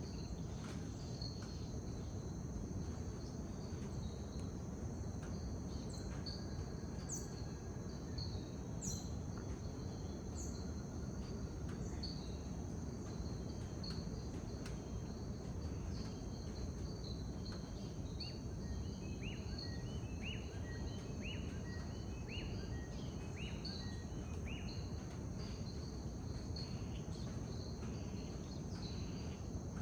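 Rainforest dawn chorus: a steady high insect drone with repeated short chirps over a low, even background rumble. A few high, sliding bird notes come in the first third, and a run of short falling calls follows in the second half.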